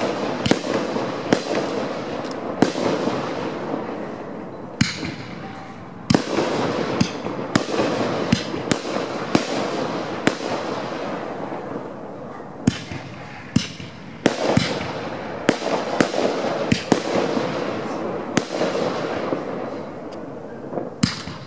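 Aerial firework shells bursting overhead in a rapid series of sharp bangs, often several a second, over a continuous wash of noise that swells and dies away in waves.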